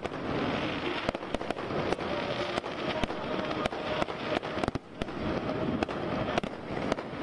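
Fireworks going off: many sharp bangs and pops at irregular intervals over a continuous dense background din, with a brief lull about five seconds in.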